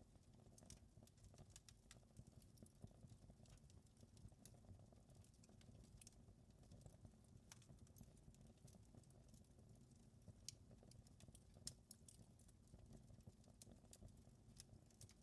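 Wood fire crackling in a fireplace: faint, irregular pops and snaps over a steady low rumble of the burning fire.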